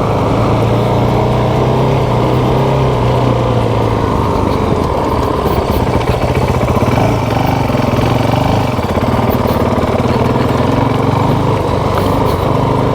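Motorcycle engine running steadily at low revs, its pitch wavering slightly about halfway through.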